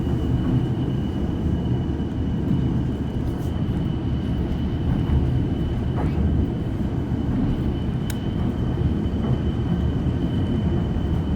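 Steady rumble of a moving passenger train heard from aboard a railcar, with a thin steady high whine above it and a couple of faint clicks.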